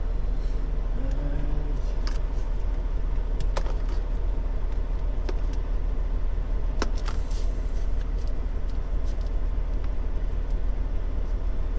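Steady low rumble of an idling truck engine, with a few sharp clicks over it.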